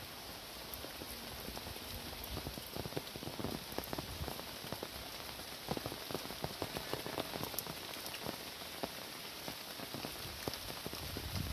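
Heavy rain falling steadily: an even hiss with many close, sharp drops striking, a little denser from about three seconds in.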